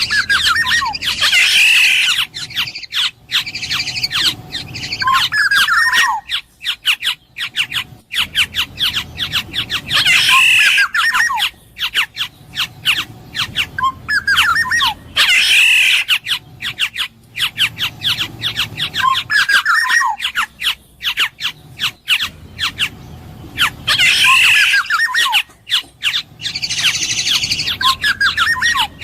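Black-naped oriole calling: a phrase repeated every four to five seconds, made of short sliding whistles mixed with harsh squawking notes.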